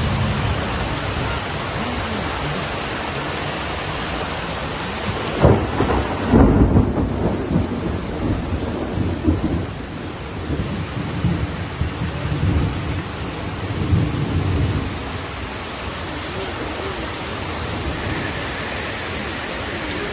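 Heavy rain falling steadily, with a sudden thunderclap about five and a half seconds in and thunder rumbling on in waves until about fifteen seconds.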